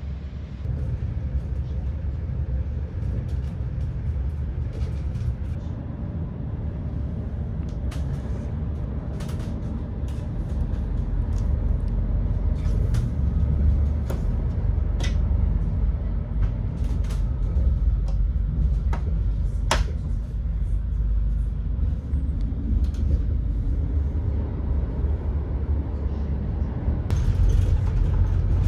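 ETR600 tilting train running, heard from inside the cabin: a steady low rumble with scattered clicks and creaks, one sharper tick about 20 seconds in.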